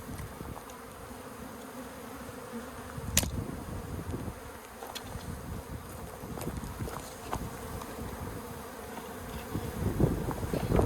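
A colony of honey bees buzzing steadily around their box while being relocated. A sharp click sounds about three seconds in.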